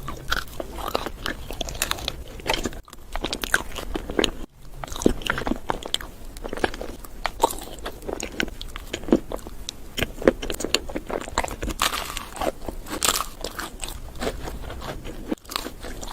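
Close-miked crunchy biting and chewing of food, a dense irregular run of sharp crackling crunches.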